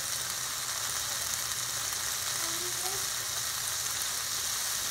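Chicken breasts searing in a hot stainless steel frying pan: a steady sizzle of frying.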